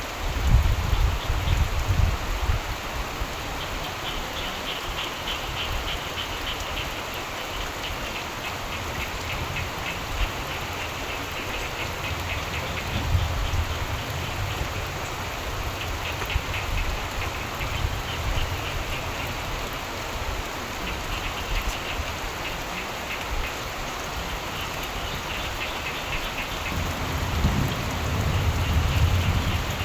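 Steady rain with frogs calling in rapid pulsed trills that come and go in several bouts, and low rumbles of thunder at the start and again near the end.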